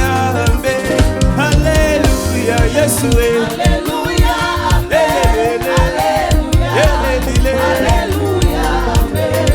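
Live gospel praise and worship music: singers over a band with bass and drums keeping a steady beat.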